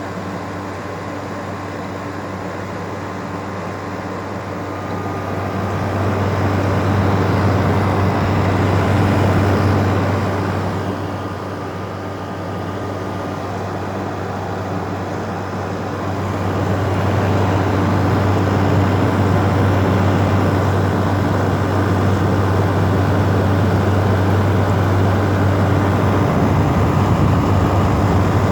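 LG air conditioner running: a steady compressor hum under the rushing air of its fan, swelling louder for a few seconds about a fifth of the way in and again from just past halfway.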